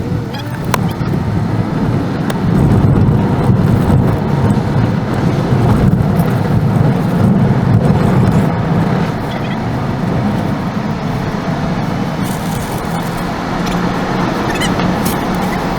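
Car driving on the road: steady rumble of engine and tyre noise that swells a little a few seconds in and eases back after about nine seconds.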